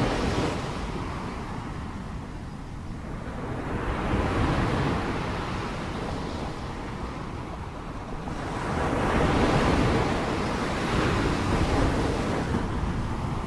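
Sea waves breaking and washing in, swelling and ebbing in a slow rhythm with surges about a second in, around four seconds in and around nine to eleven seconds in, with wind on the microphone.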